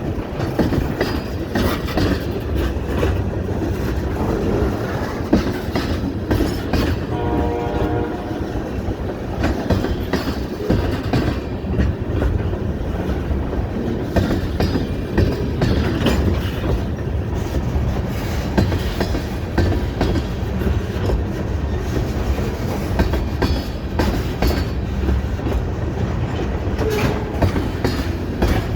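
Train rolling past on the Hudson Bay Railway, a steady rumble with the clickety-clack of wheels over rail joints. A short horn blast sounds about seven seconds in.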